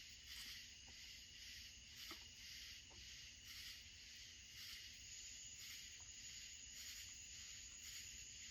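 Near silence: faint high-pitched insect chirring that pulses evenly, with a few faint light clicks.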